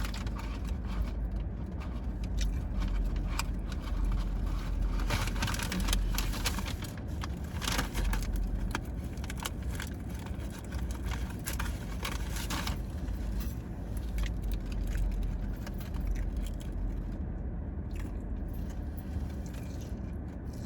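Eating sounds inside a car: chewing and crunching, with many short clicks, crackles and scraping as the food and its packaging are handled, densest in the first half. Underneath runs a steady low rumble of the car.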